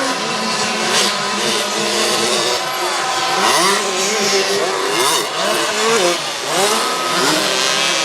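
Several two-stroke 65cc motocross bikes racing, their engines revving up and down over one another.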